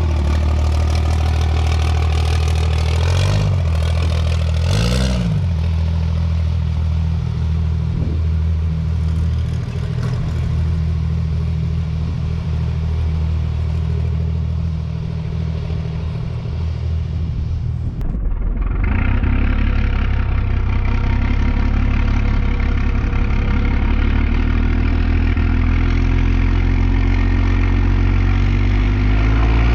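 Cummins diesel engine of a drag truck idling, blipped twice in quick succession a few seconds in, each rev rising and falling back. From about two-thirds of the way through, a steady engine run takes over, its pitch creeping slowly up near the end.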